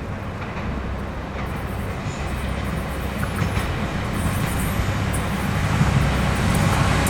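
Taiwan Railways local electric multiple-unit train approaching, a low rumble and hum that grows steadily louder.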